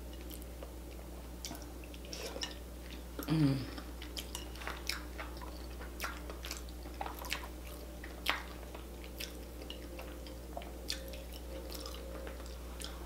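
Close-up wet chewing and lip smacks of sauce-coated boiled potato eaten by hand, with many short scattered clicks. A brief hum that falls in pitch sounds about three and a half seconds in.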